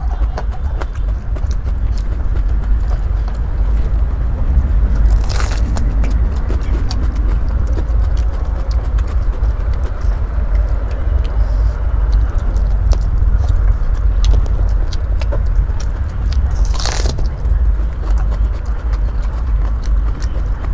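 Close-miked chewing and crunching of raw bitter melon: a run of small crisp clicks, with two louder crunchy bites, about 5 seconds in and again near the end, over a steady low rumble.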